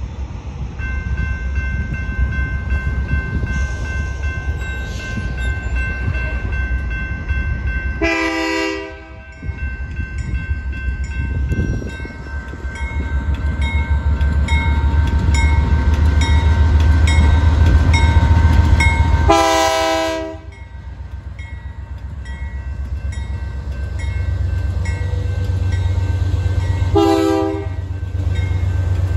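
Train horn blowing three times over the low rumble of a moving train: two long blasts, one about a third of the way in and one about two-thirds in, then a short blast near the end. The rumble grows louder toward the middle as the train comes closer.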